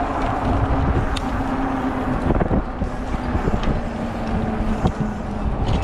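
City traffic and wind rushing over the microphone of a moving bicycle, with a steady low hum underneath.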